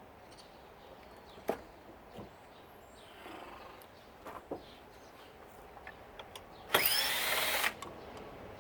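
A power drill runs for about a second near the end, its pitch rising as it spins up and then holding. Before it there are a few light clicks from parts being handled.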